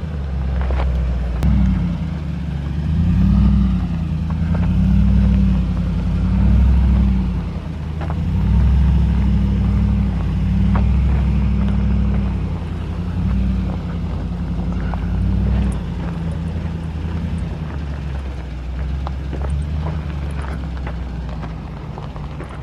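Ford F-150 FX4's V8 engine running at low revs in first gear as the truck crawls over rocks, its speed rising and falling gently again and again. A few faint clicks and knocks come through over it.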